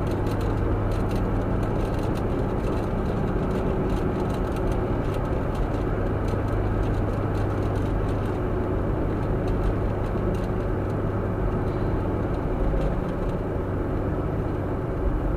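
Steady engine and road noise of a vehicle being driven, heard from inside, with occasional light rattles.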